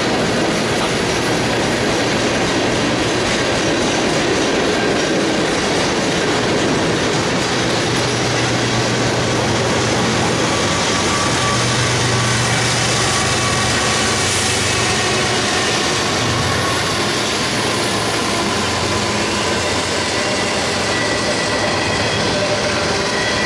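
Long freight train rolling past close by: steady rumble and clatter of steel wheels on rail. A low diesel drone rises in the middle as two mid-train diesel locomotives pass among the cars.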